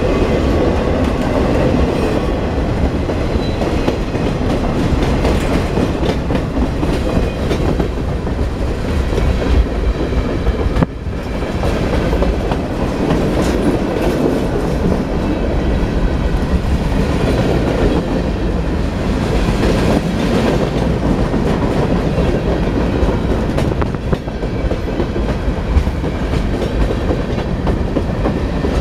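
Freight train of boxcars rolling past at close range: steel wheels running on the rails in a steady rumble.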